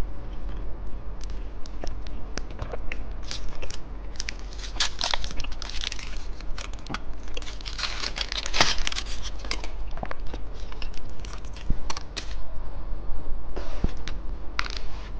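Plastic candy wrapper crinkling and being torn open, in irregular bursts of crackling with sharp clicks, loudest about eight to nine seconds in.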